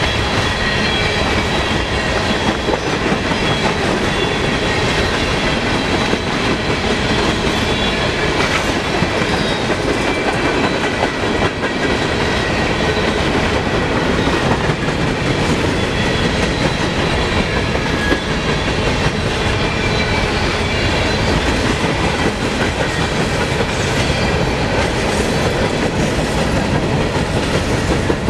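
Freight cars of a grain train rolling past at speed: a steady rumble of steel wheels on rail, with clickety-clack over the rail joints and a faint, steady high-pitched squeal from the wheels.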